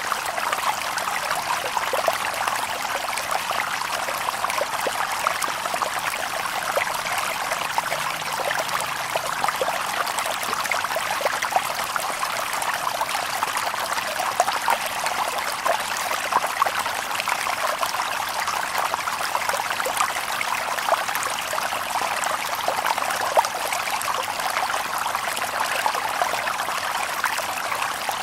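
Shallow stream babbling over stones: a steady, even rush of water with many small splashes and gurgles, thin in the low end.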